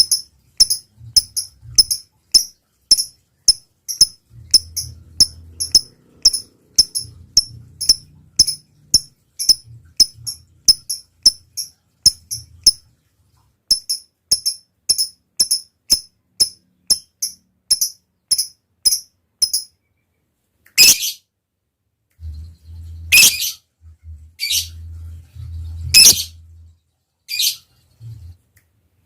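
Lovebird giving a long series of short, high chirps, about two a second, with a brief break near the middle, then a handful of loud, harsh screeches a second or two apart near the end.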